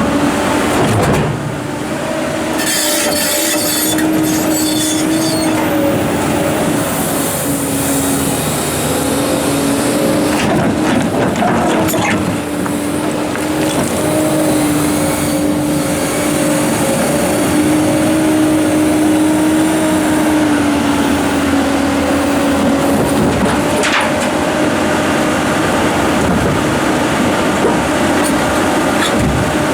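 Komatsu PC290-11 excavator working under load: diesel engine and hydraulic pumps running with a steady whine that shifts slightly in pitch, with a few sharp knocks along the way.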